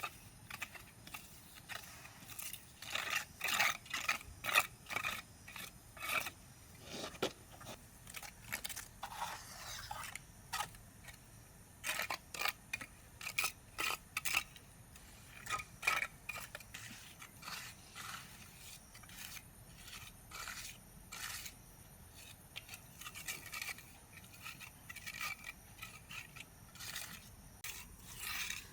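A tool scraping over concrete in many short, irregular strokes, typical of trowelling or shovelling a fresh concrete pour.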